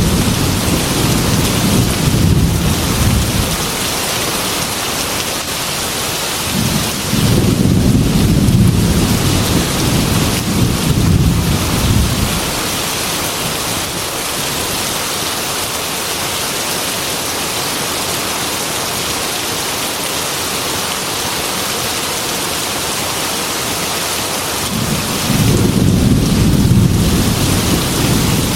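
Heavy rain pouring steadily against a glass window, with long, low thunder rumbles: one at the start, a longer one about a quarter of the way in, and another near the end.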